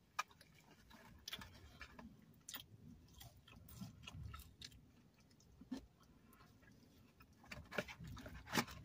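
A person chewing food with the mouth close to the microphone: quiet, irregular wet mouth clicks and smacks about a second apart.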